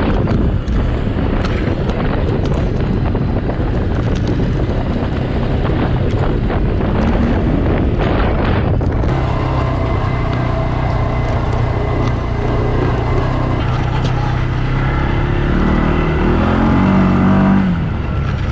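ATV engine running under way, with wind rushing over the microphone, heaviest in the first half. The engine hum steadies about halfway through, revs up near the end, then eases off.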